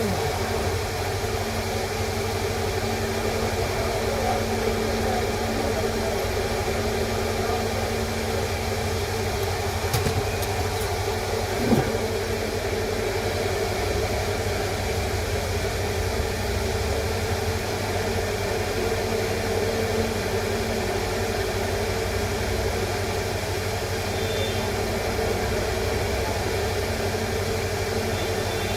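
Steady machine hum with constant low tones, unchanging throughout, with a couple of faint brief clicks about ten and twelve seconds in.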